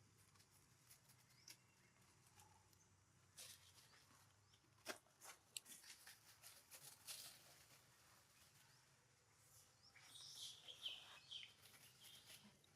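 Near silence: faint outdoor ambience with scattered soft clicks and a short run of high chirping calls about ten seconds in.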